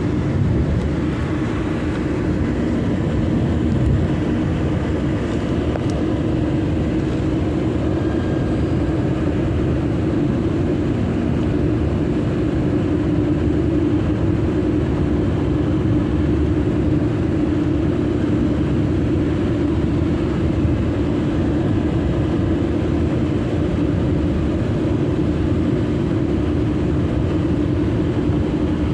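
Car driving at a steady pace: continuous road and engine noise with a steady low hum.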